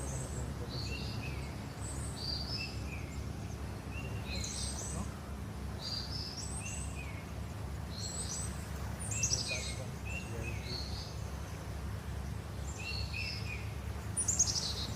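Birds chirping and calling again and again in short repeated phrases, with two louder quick falling trills about nine seconds in and near the end, over a steady low rumble.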